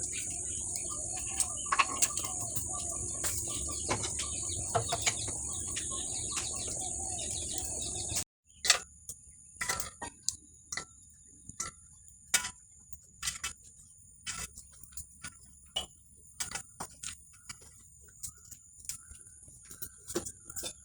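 Outdoor ambience of a steady high-pitched insect drone with occasional bird calls and scattered short clicks and knocks; about eight seconds in the sound cuts to a quieter scene where the drone continues more faintly.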